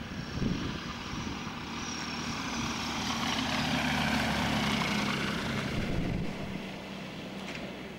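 Light propeller plane making a low pass: its engine and propeller drone swells to a peak about four seconds in, then fades away.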